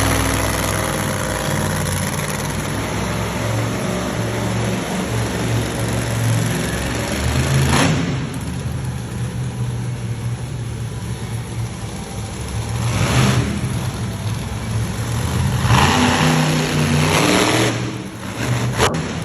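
Monster truck engines running and revving, with a steady low drone broken by several louder surges about 8, 13 and 16 seconds in.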